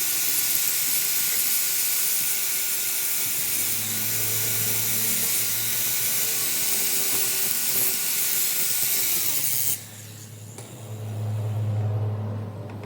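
A power tool running with a loud, steady hiss and a whine that winds down and cuts off suddenly about ten seconds in, followed by a low engine hum that swells.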